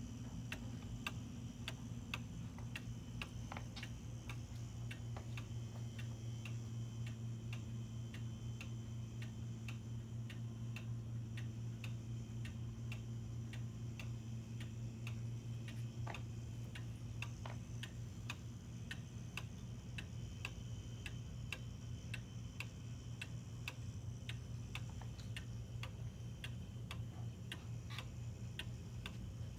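Antique Black Forest cuckoo clock's movement ticking steadily in an even rhythm, over a low steady hum.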